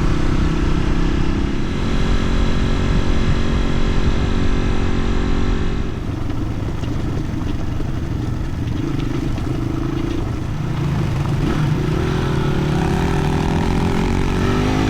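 Crossfire dirt bike's single-cylinder engine running under load on a steep climb; about six seconds in the note drops and softens, and near the end the pitch rises again as the engine revs up.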